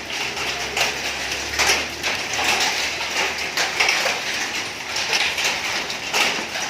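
Hail falling heavily: a dense, steady clatter of many small hailstones striking hard surfaces.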